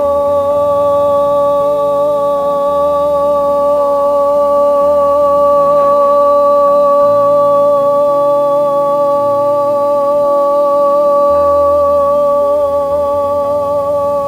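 A woman's voice singing one long held 'do' note with a slight vibrato, sustained to show resonance.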